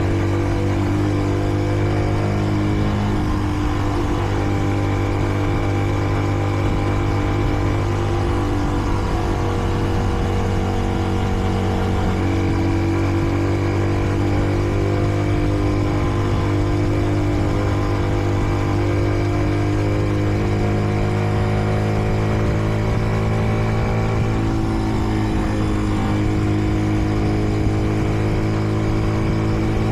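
Kreidler Dice CR 125 motorcycle engine running steadily while riding, its pitch shifting slightly about twelve seconds in and again near the end. The bike is still being run in, kept below about 70 km/h.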